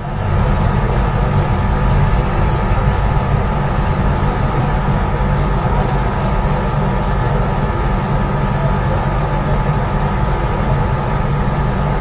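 Loud, steady low rumble of a heavy engine or machinery, with a constant hum over it and no change throughout.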